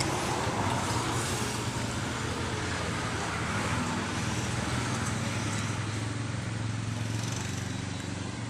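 Steady road traffic noise, with a constant low engine hum from passing vehicles.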